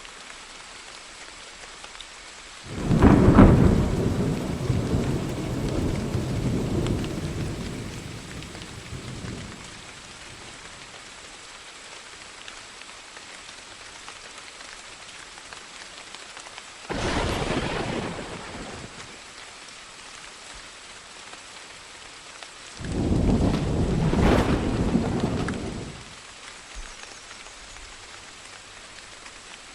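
Steady rain with three peals of thunder: a loud clap about three seconds in that rumbles on for several seconds, a shorter sharp crack past the middle, and another rumble near the end.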